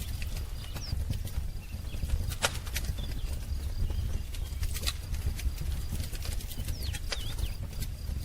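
Wood fire crackling with irregular sharp pops over a low steady rumble, with a few faint short bird chirps, around a second in and near the end.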